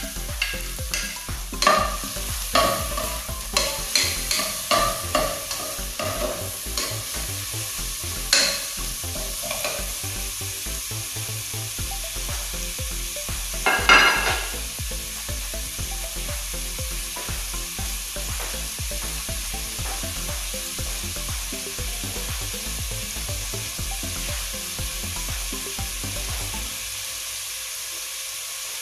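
Chopped ginger and garlic sautéing in oil in a pot, a steady sizzle. For the first ten seconds or so a utensil clinks and scrapes against the plate and pot, with one louder knock about fourteen seconds in.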